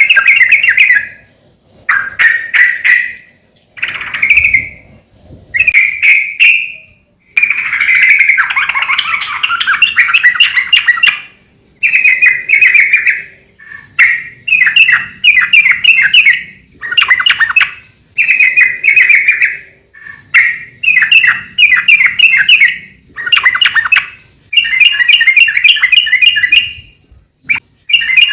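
Sooty-headed bulbul singing vigorously in a run of short, bubbly, warbling phrases, each a second or two long with brief pauses between them, about a dozen in a row.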